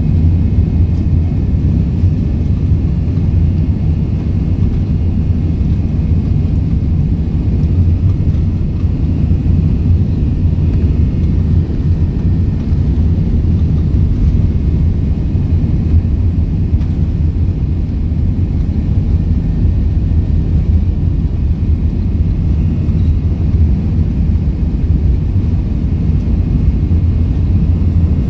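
Airbus A380 with its four jet engines running: a loud, steady low rumble with faint steady whining tones higher up, unchanging throughout.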